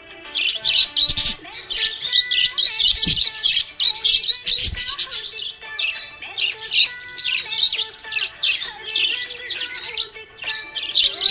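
Budgerigars chirping and warbling in a busy, unbroken stream of short high chirps, over faint background music with steady held notes.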